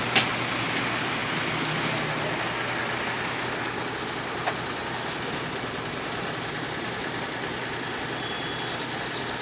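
Steady running noise of a road vehicle, with a sharp click just after the start and a fainter one about four and a half seconds in; a higher hiss joins from about three and a half seconds in.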